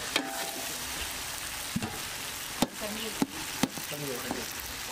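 Fried egg pieces with onion and chilli powder sizzling in a large metal pot while being stirred with a metal perforated skimmer. A steady frying hiss runs throughout, with a few sharp knocks of the skimmer against the pot.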